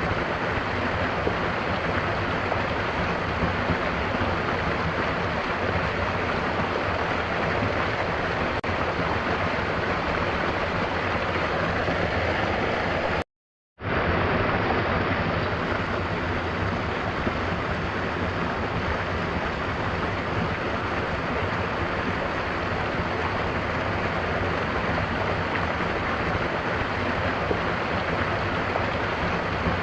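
Mountain waterfall: water rushing and splashing in a steady, dense roar. About halfway through it breaks off into silence for half a second, then carries on unchanged.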